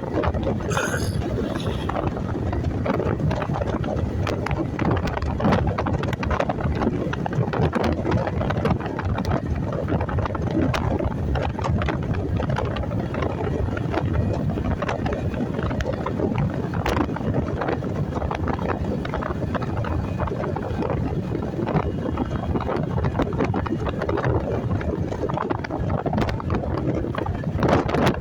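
Wind buffeting the microphone of a riding motorcyclist, mixed with motorcycle and road noise, a steady rushing rumble.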